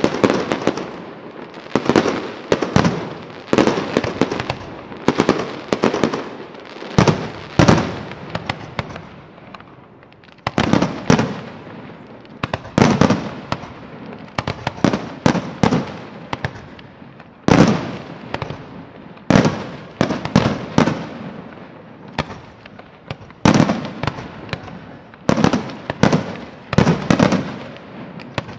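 Fireworks display: a steady run of loud shell bursts, often several in quick succession, each followed by a fading rumble and crackle, with a short lull about ten seconds in.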